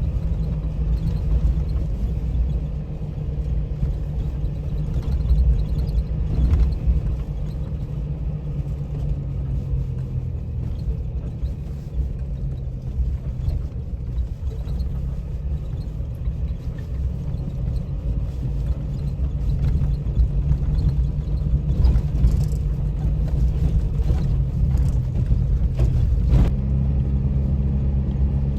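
A motor vehicle's engine running steadily as it is driven, a low drone with some knocks and rattles. Near the end the engine note shifts to a slightly higher pitch.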